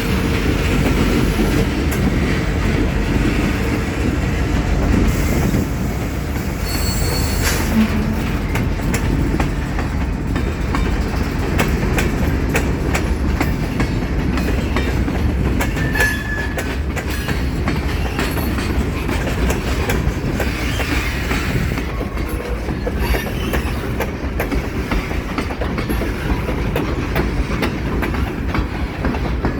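Canadian Pacific train rolling past at close range: a steady rumble of the cars with rapid clicking of wheels over rail joints, and a short high wheel squeal about seven seconds in and again about sixteen seconds in.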